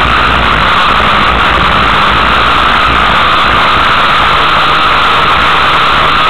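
Race car engine running steadily under load, heard loud and harsh from inside the car.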